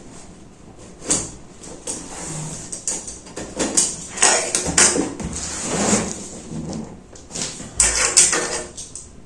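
Factory tape being peeled and torn off a cardboard box, with cardboard and packaging scraping and rustling in irregular rasps and a thump about eight seconds in.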